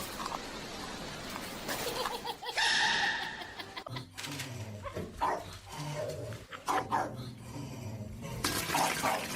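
A dog's vocal sounds mixed with assorted short noises.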